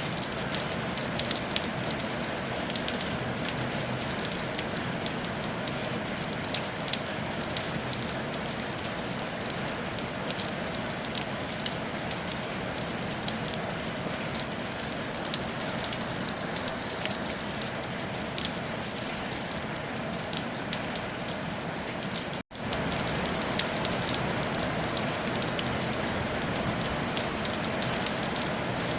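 Steady rain falling on a tile roof, a dense even hiss peppered with the ticks of individual drops. About two-thirds of the way in, the sound drops out completely for a split second, then the rain resumes.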